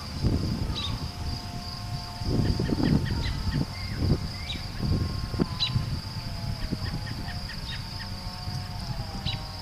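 Wind buffeting the microphone in gusts, with short bird chirps and a steady high insect-like hum behind it.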